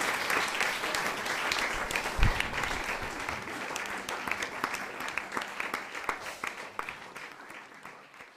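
Audience applauding after a jazz set, the clapping thinning to scattered claps and fading out near the end. A single low thump about two seconds in.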